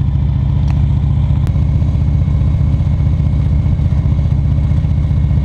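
Motorcycle engine running at a steady, low note with no revving, heard close on a bike-mounted camera.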